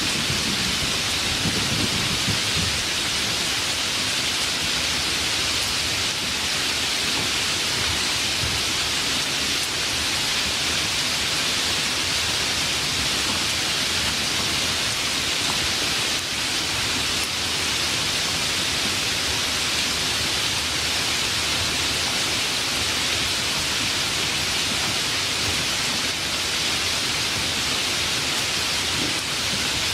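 Steady, heavy rain falling. The tail of a low thunder rumble fades out in the first couple of seconds.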